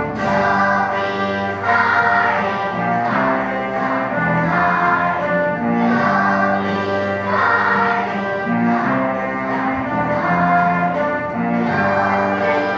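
A children's choir singing a song in unison over instrumental accompaniment, with long held notes.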